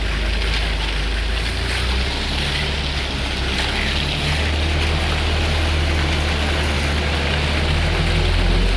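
Concrete mixer truck's diesel engine running steadily, with its low pitch shifting a few times, over a steady rushing noise.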